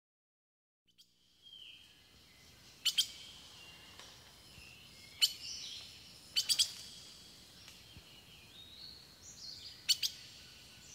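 Recorded bird calls: a few sharp, high chirps, several in quick pairs, over faint high whistled notes, starting after a second of silence.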